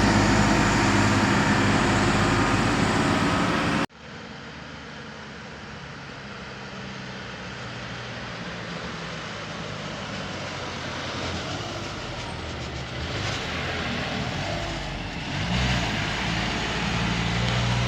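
A truck's diesel engine running loudly, which cuts off abruptly about four seconds in. After that, quieter engine and road noise that slowly grows louder, the engine note coming back stronger near the end.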